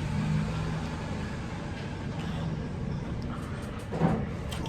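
A vehicle engine running with a steady low hum, and a short voice about four seconds in.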